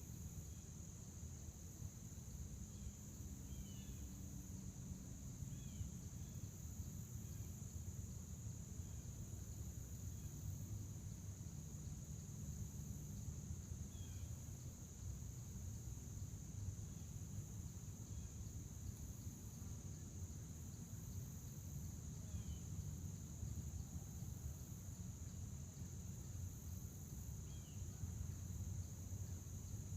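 Crickets chirping in a continuous, steady high-pitched trill, with a few faint short bird chirps now and then and a low rumble underneath.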